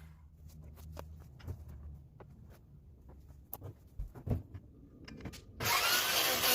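Scattered light knocks and clicks of tool handling, then a few seconds in a loud power tool starts up suddenly and keeps running.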